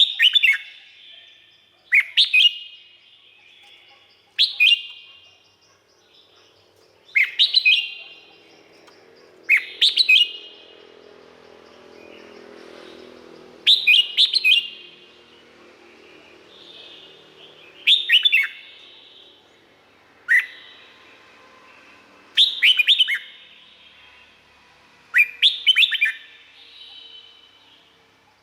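Red-whiskered bulbul singing short, bright phrases, repeated every two to three seconds.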